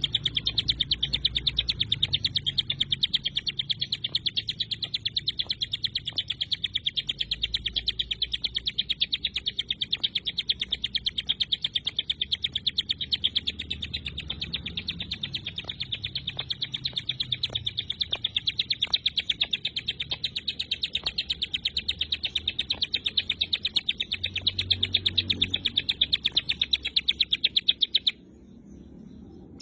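Ciblek gunung, a prinia, singing its dense 'tembakan' song: a fast, even train of sharp, high chirps that keeps up almost without a pause and breaks off near the end.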